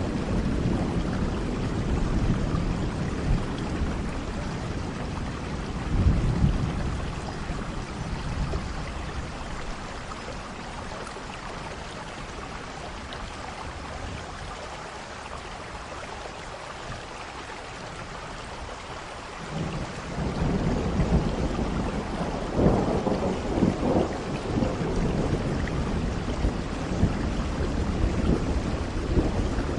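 Steady rain falling, with rolling thunder. The rumble dies down through the middle and a new, louder peal rolls in about two-thirds of the way through.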